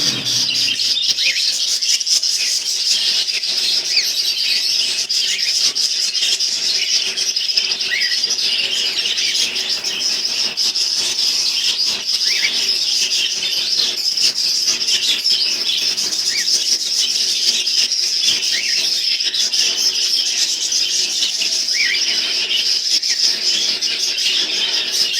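A flock of small pet birds chirping and chattering all at once, a dense, steady twitter of many overlapping calls with no pauses.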